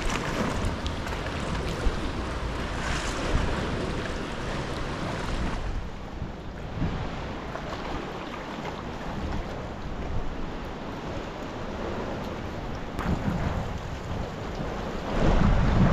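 Sea water lapping and splashing around a sea kayak under way, with wind buffeting the microphone; the noise gets louder near the end.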